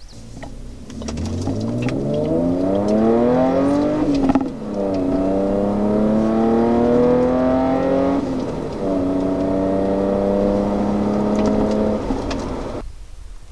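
Audi A5 with its rear mufflers and resonators removed, accelerating through the gears: the exhaust note climbs in pitch, drops suddenly at a shift about four seconds in, climbs again, dips briefly at a second shift, then holds steady before cutting off near the end.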